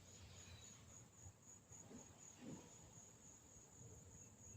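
Near silence, with a faint high chirping from insects that pulses evenly and does not stop.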